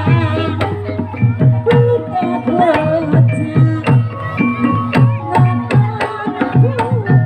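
Live Javanese gamelan music: kendang hand drums play steady strokes whose pitch drops, about two to three a second, over held metallophone tones, with a wavering melody above.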